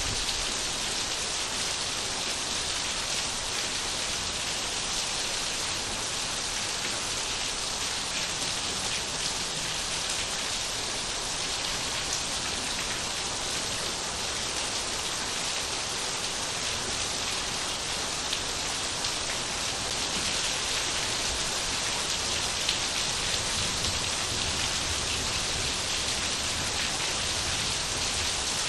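Steady rain falling, an even hiss with fine patter of drops on surfaces.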